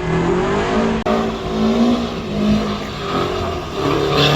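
Car engine revved hard at a car-meet burnout session, its pitch rising and falling again and again over a hiss. The sound drops out briefly about a second in, and the revs climb again near the end.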